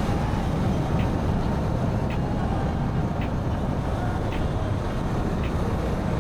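Motorcycle on the move, heard through a microphone inside the rider's helmet: a steady low rumble of engine and wind noise. A faint, short tick comes about once a second.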